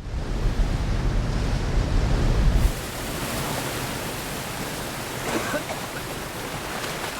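Rushing, churning water of a river and waterfalls, as in a film sound mix. It starts suddenly with a loud, deep rumble, and after about three seconds it gives way to a lighter, steady hiss of water.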